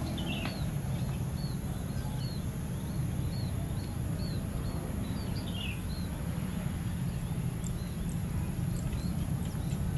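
A bird's short chirps repeating about once or twice a second, with a quick falling run of notes twice, over a steady low outdoor rumble.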